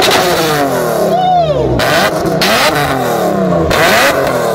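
BMW E36's 2.8-litre naturally aspirated straight-six, breathing through an Eisenmann DTM exhaust, free-revved several times: the pitch climbs and falls back in repeated blips, with a hard rasp at the top of the revs.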